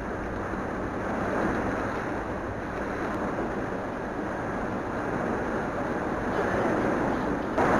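Steady rushing storm wind, with an abrupt step up to a louder rush near the end.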